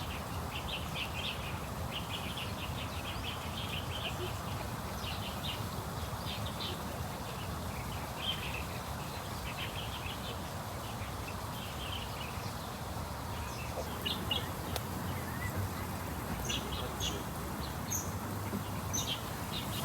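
Small birds chirping: quick runs of short high notes, thinning to scattered single chirps in the second half, over a steady low background rumble.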